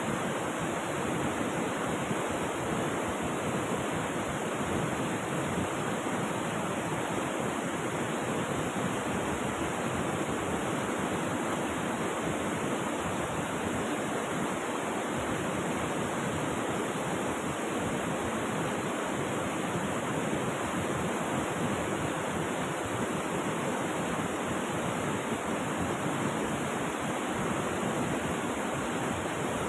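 Rushing river water, a steady even hiss with no breaks or changes.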